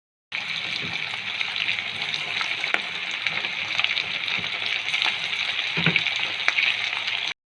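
Chicken frying in hot oil: a steady sizzle with scattered sharp crackles and pops. It starts suddenly just after the beginning and cuts off suddenly near the end.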